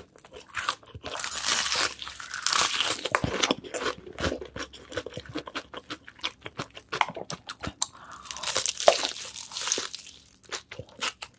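Close-miked crunching bites and chewing of a crispy fried chicken burger, the crisp coating crackling loudly in two bursts of bites, with quieter chewing in between.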